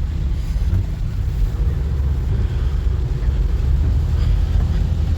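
Steady low rumble of a vehicle being driven, engine and road noise heard from inside it.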